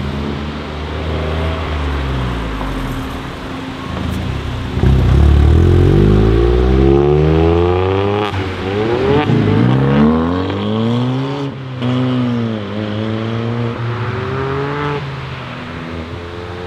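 Ford Fiesta rally car engine pulling away hard, revving up through several quick upshifts, each marked by a sudden drop in pitch before it climbs again. It is loudest in the first hard pull about five seconds in and eases off toward the end.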